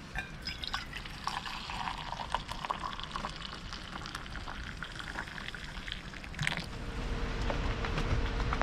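Liquid being poured, with small clicks and clinks. Near the end a steady hum with a low rumble starts.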